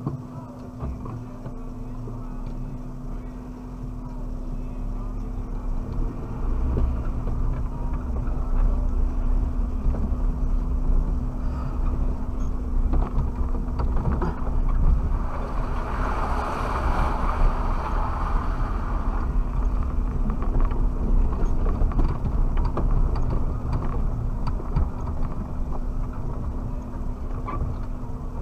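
Suzuki Jimny driving off-road, heard from inside the cabin: a steady engine and drivetrain rumble with a constant hum, growing louder about six seconds in, and a brief hissing rush partway through.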